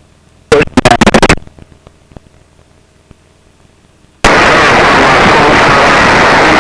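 Aircraft radio/intercom audio: a brief, choppy, garbled transmission about half a second in, then near quiet. A little over four seconds in, a mic is keyed open and a loud, steady hiss of static and cockpit noise switches on abruptly.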